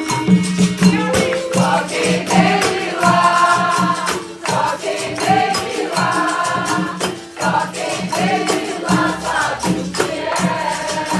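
Capoeira Angola bateria playing: berimbau, pandeiro and rattles keep a steady, dense rhythm under group singing in chorus.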